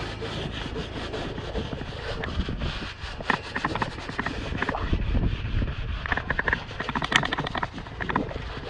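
Irregular scraping and scrubbing strokes from hand-cleaning built-up grime off the inside of an old condenser unit, busiest in the second half.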